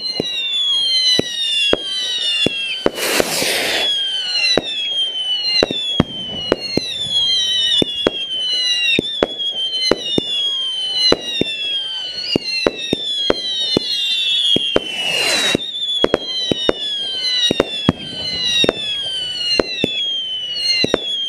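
Fireworks going off: many overlapping whistles, each falling in pitch, over frequent sharp bangs. Two louder rushing bursts come about three seconds in and again near fifteen seconds.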